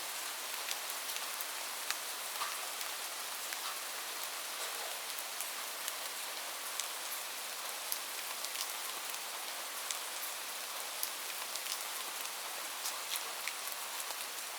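Steady rain: an even hiss with many scattered, sharper ticks of single drops landing.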